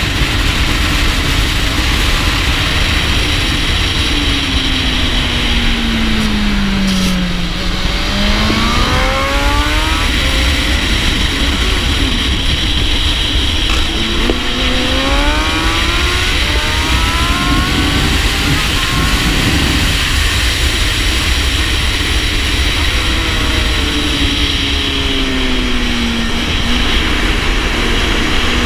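2017 Honda Fireblade SP (CBR1000RR SP) inline-four engine heard through heavy wind rush on the rider's shoulder-mounted camera, riding hard on track. The engine note falls under braking and downshifts about a quarter of the way in, then climbs as it accelerates, with a run of upshifts in the middle; it falls again late on and climbs once more near the end.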